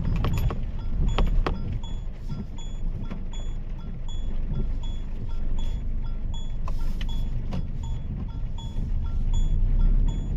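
Turn-signal indicator ticking steadily inside a Mahindra XUV 3XO's cabin, a short electronic tick-tock about one and a half times a second, over the low rumble of the road and engine. A few sharp knocks come in the first second and a half, and again about seven seconds in.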